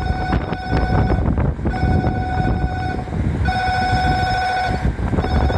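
Electronic platform departure bell ringing in repeated trilling bursts of about a second each, signalling a train about to leave. Strong wind buffets the microphone underneath.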